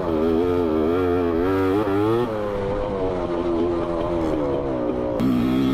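Dirt bike engine running under way, its pitch wavering up and down with the throttle. The note shifts about two seconds in and drops suddenly near the end.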